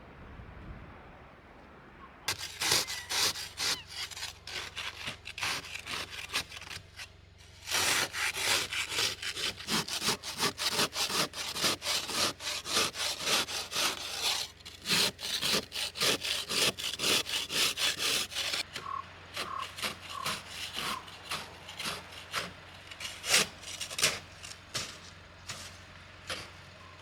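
Rapid back-and-forth rasping strokes, sawing-like, in a run of a few seconds, a short pause, then a longer run of about ten seconds, followed by slower, separate strokes.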